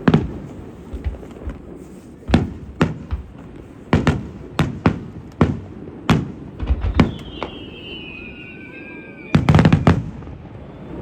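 Aerial fireworks shells bursting: a string of sharp, echoing bangs, some in quick pairs, with a long whistle falling slightly in pitch about seven seconds in and a dense rapid cluster of bangs near the end.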